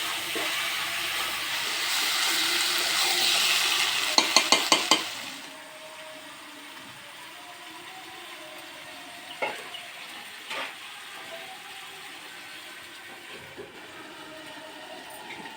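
Food frying in a pan with a loud sizzling hiss for about five seconds, ending in five quick sharp taps. After that the hiss drops away, leaving a quieter background with two or three single knocks.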